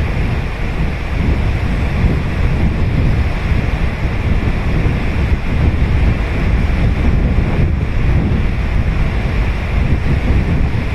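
Ocean surf breaking and washing on the beach in a steady, continuous wash, with wind buffeting the microphone.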